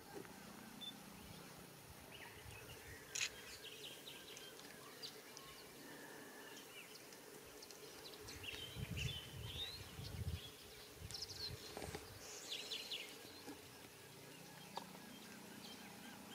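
Faint outdoor ambience with scattered short bird chirps and calls. There is a sharp click about three seconds in and a few low muffled thumps later on.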